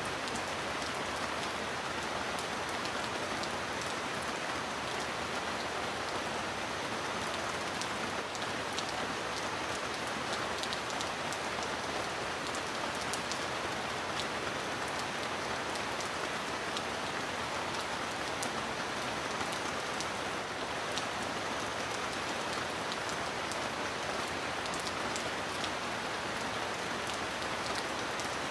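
Steady heavy rain: an even hiss of rainfall with scattered crisp drop ticks.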